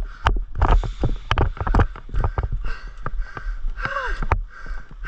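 Irregular clicks and knocks over rustling, with a short rising-and-falling chirp about four seconds in.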